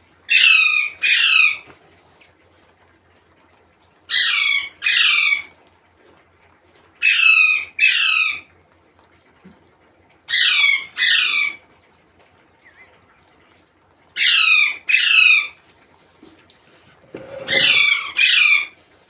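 A parrot calling in pairs of harsh squawks, two notes close together, repeated six times about every three seconds. A brief low rumble sits under the last pair.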